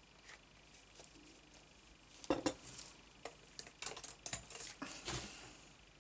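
Small hard craft supplies being handled and set down on a desk: a quick run of sharp clicks and knocks with some rustling, starting about two seconds in and lasting about three seconds.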